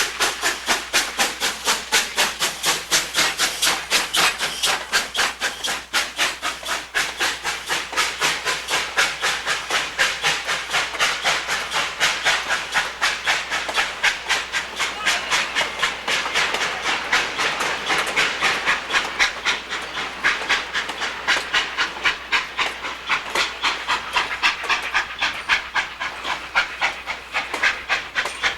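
Steam locomotive working hard upgrade under load, its exhaust chuffing in sharp, even beats about three to four times a second, with steam hissing underneath.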